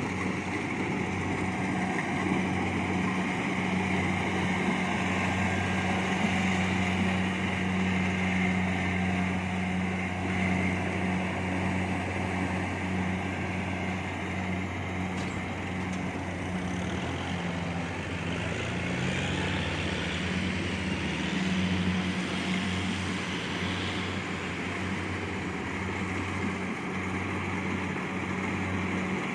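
Kubota DC70 Plus rice combine harvester running steadily, its diesel engine giving a low drone; the engine note sags and recovers a little past the middle.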